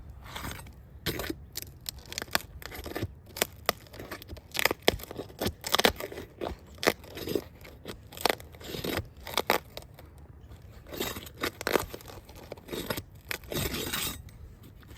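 Asphalt roof shingles being pried and pulled loose by hand, crackling and tearing in irregular sharp snaps as the stuck-down shingle comes away, with a short lull about two-thirds of the way through.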